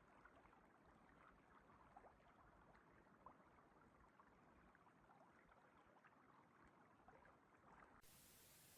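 Very faint running water of a river, barely above silence, with small scattered splashy ticks; about eight seconds in it gives way to a flat, steady faint hiss.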